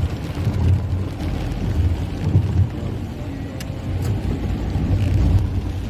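Car driving on the road, a low uneven rumble of engine and road noise.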